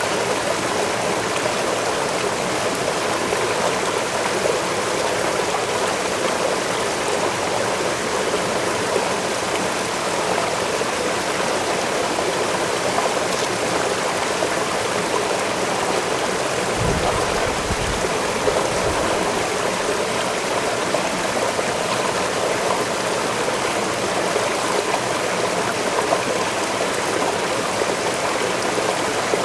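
Waterfall rushing steadily, an even noise of falling water. A brief low rumble comes in about seventeen seconds in.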